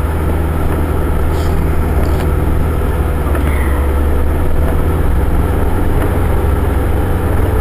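A car driving steadily, heard from inside the cabin: a constant low engine and road drone under an even hiss.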